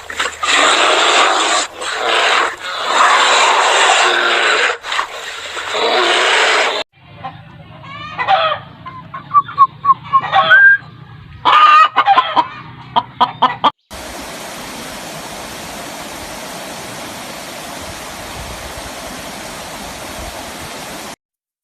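Chickens clucking and squawking in a run of short, pitched calls, cut between clips. It ends in a steady hiss that stops suddenly.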